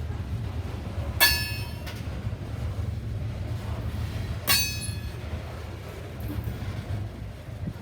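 A train rolling past with a steady low rumble. Two sharp metallic clangs, about three seconds apart, each ring briefly with a high, bell-like tone, typical of wheels or couplers striking on the rails.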